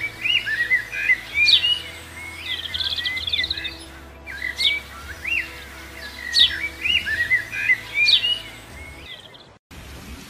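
Birds singing: repeated whistled calls with quick rising and falling sweeps and short trills, over a faint steady background. The birdsong cuts out briefly near the end.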